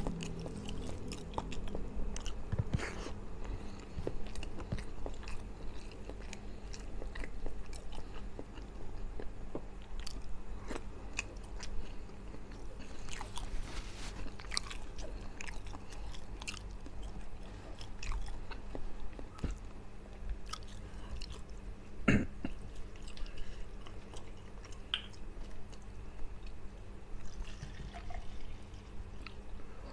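Close-miked chewing of fried fish and rice eaten by hand, with many short clicks and one louder click about 22 seconds in.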